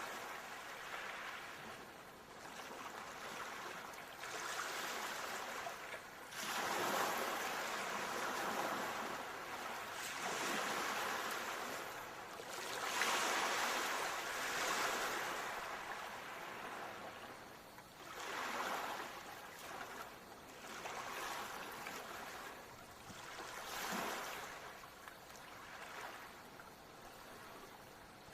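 Ocean waves breaking and washing up the shore, each surge of surf swelling and then draining away, several times over.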